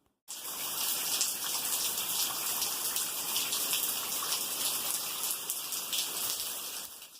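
Rushing water: a steady hiss that cuts in abruptly just after the start and cuts off abruptly near the end.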